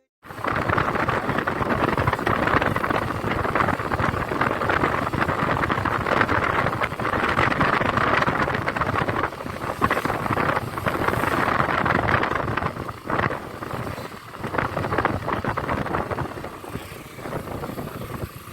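Riding noise from a moving motorcycle: wind buffeting the microphone over the running engine, easing off a little near the end.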